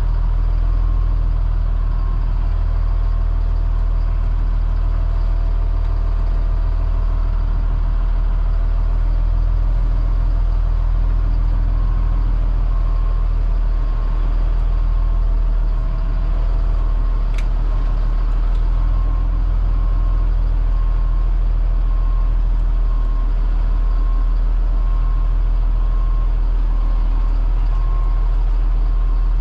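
Cat C7 diesel engine of a Blue Bird All American FE bus running steadily with no change in pitch. A faint beep repeats over much of it, pausing for several seconds after the start, and there is a single sharp click about seventeen seconds in.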